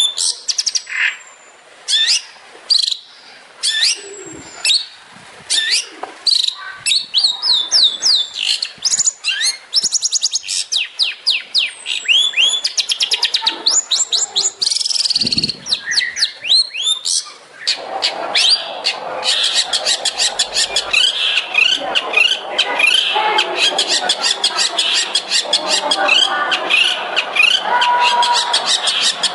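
Long-tailed shrike (cendet) singing a fast, varied song of sharp chirps and quick rising and falling whistles. About 18 seconds in, the song turns into a denser, unbroken run of rapid chatter.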